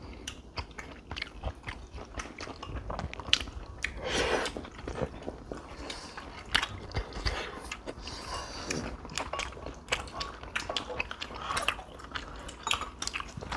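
Close-miked chewing of chewy rice cakes and beef, with many small wet mouth clicks and smacks, and a couple of longer noisy mouth sounds about four and eight seconds in.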